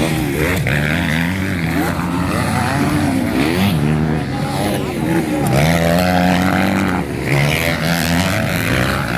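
Several motocross bikes racing, their engines revving up and dropping off again and again with throttle and gear changes, overlapping one another.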